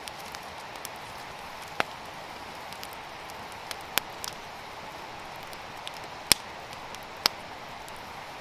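Campfire crackling: a steady hiss with about five sharp, separate pops scattered through it.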